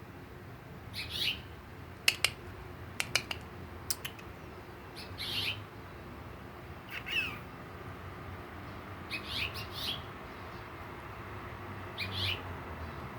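Finches chirping: short call notes every second or two, some sliding downward in pitch. A few sharp clicks come about two to four seconds in.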